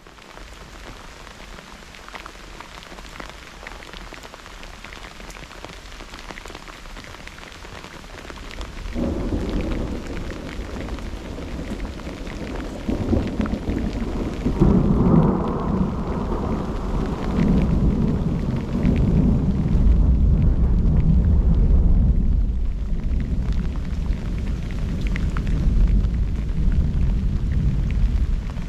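Steady rain hissing, then about a third of the way in a long roll of thunder that starts suddenly, swells twice and keeps rumbling low under the rain.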